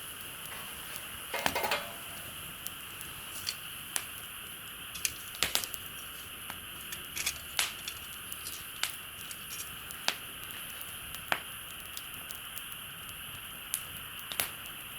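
Wood campfire crackling: irregular sharp pops and snaps, some in quick clusters, over a steady high hiss.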